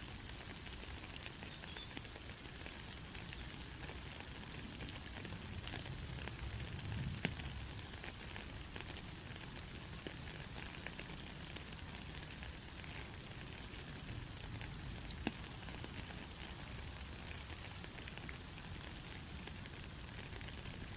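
Steady white-noise hiss with faint crackling, like frying or light rain, dotted with a few small clicks.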